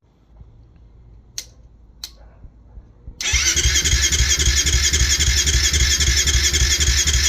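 Kawasaki KFX450R's single-cylinder four-stroke engine starting for the first time after a rebuild: two sharp clicks, then about three seconds in the engine fires and runs loud and steady with an even, rapid pulse.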